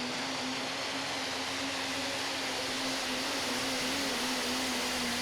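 An engine idling with a steady hum over a constant wash of outdoor noise, with no sudden events.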